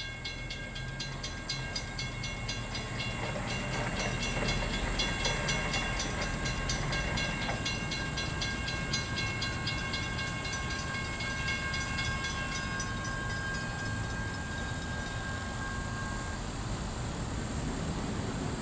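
Approaching CSX mixed freight train led by a GE Dash-8 diesel locomotive, a low rumble that grows louder as it nears. Over it, a rapid, evenly repeating ringing with steady tones fades out near the end.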